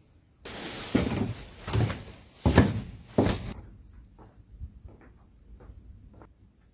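A run of heavy knocks and bumps with rustling for about three seconds, then a few faint light clicks.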